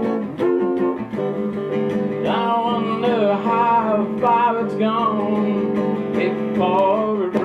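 Acoustic guitar strummed steadily in a blues song, with a wordless sliding melody line joining over the chords about two seconds in.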